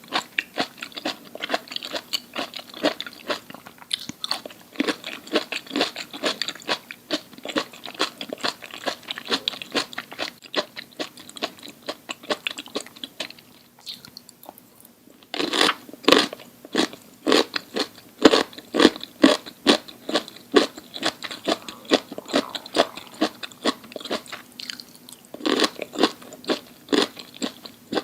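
Close-miked chewing of crunchy food: a fast run of crunches, dropping to a brief lull about halfway, then picking up louder again.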